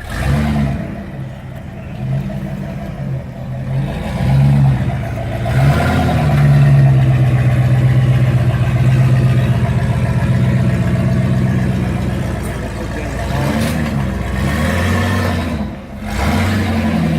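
Off-road competition truck engine revving in several short bursts, then held at high revs for about six seconds as it is driven hard, before easing off and revving up again near the end.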